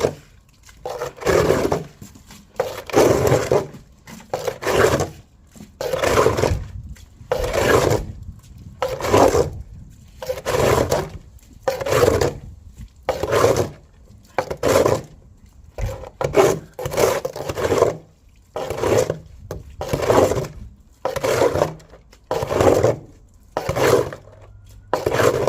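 A shovel scraping and digging soil in a shallow trench, in repeated strokes about one a second.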